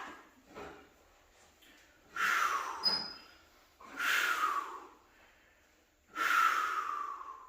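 A man breathing hard and forcefully under exertion: three loud exhales about two seconds apart, each falling off, as he presses reps of a close-grip bench press.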